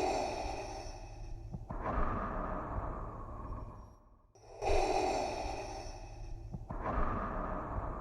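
Darth Vader's respirator breathing sound effect, a slow breath made through a scuba regulator. It goes through two full cycles, each an inhale of about two seconds followed by a longer exhale, with a brief gap a little past four seconds in.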